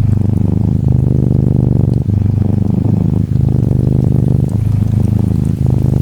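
Norwegian Forest Cat kitten purring steadily, the purr breaking briefly about once a second as it switches between breathing in and out. Faint rain patters behind it.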